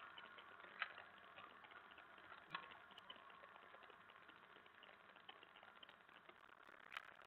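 Near silence: a faint, steady background of tiny ticks, broken by three short sharp clicks about a second in, two and a half seconds in, and near the end.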